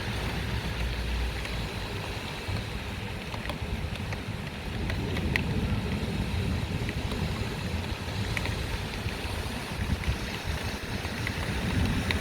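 Downpour and gusting squall wind in a thunderstorm, the gusts rumbling on the microphone, with a few scattered sharp ticks.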